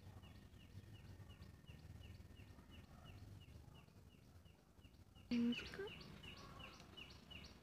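Faint chirping from a bird: one short falling chirp repeated steadily about three times a second. A brief, louder low vocal sound comes a little over five seconds in.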